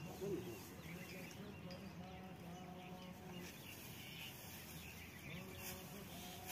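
Faint bird chirps over low, steady background noise.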